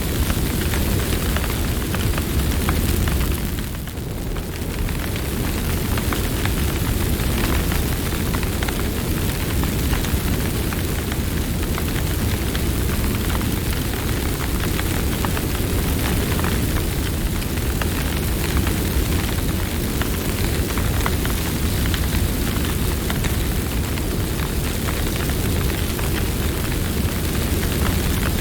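Campfire burning, a steady low rumble of flames with frequent small crackles and pops from the wood. It goes briefly quieter about four seconds in.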